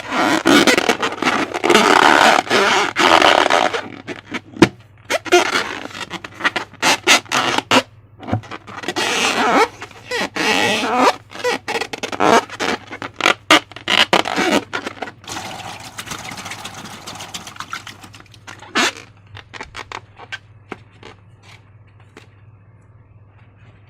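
Hands working slime and rubber balloons: wet squelching and sticky crackling with many small clicks and some rubbing. It is loudest and densest for the first few seconds, comes in irregular bursts until past the middle, then turns sparse and faint near the end.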